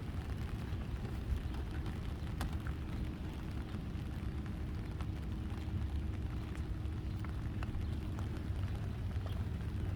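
Steady low rumble of a train running in the distance, with scattered raindrop ticks over it.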